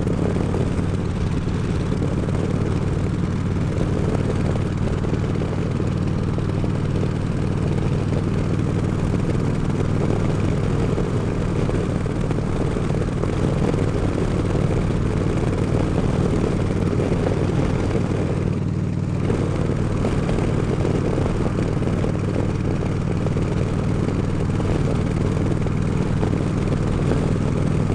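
Harley-Davidson Road King's V-twin engine running steadily at cruising speed, heard from the rider's seat with constant wind noise rushing over the helmet microphone.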